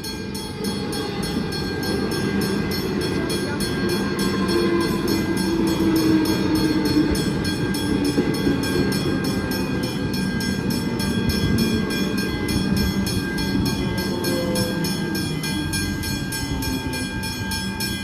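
Westinghouse hybrid level-crossing bell ringing with fast, even strikes while an EDI Comeng electric train passes, its wheels rumbling and its motors giving a slowly falling whine.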